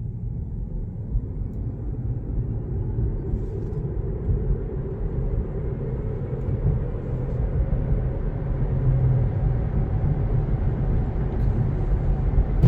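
Road and tyre noise inside a Tesla's cabin, a steady low rumble that slowly grows louder as the car gathers speed, with a faint rising whine in the first few seconds.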